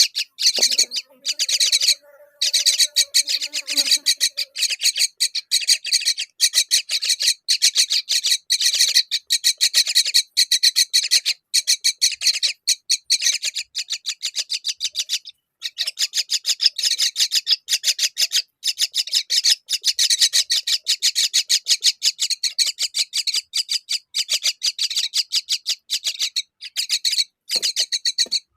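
Myna chicks giving a fast, unbroken string of begging calls, many a second, pausing only briefly a few times.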